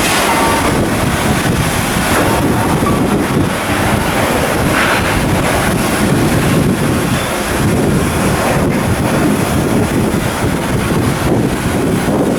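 Loud wind buffeting the microphone: a dense, rough noise that swells and dips irregularly, with no steady tone in it.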